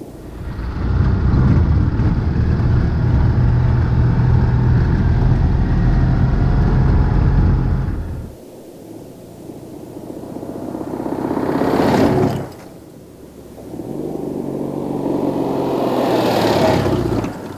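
Citroën Méhari's air-cooled 602 cc flat-twin engine under way. A long, steady, loud run is followed by two stretches where the engine revs up, rising in pitch and loudness, each cut off suddenly.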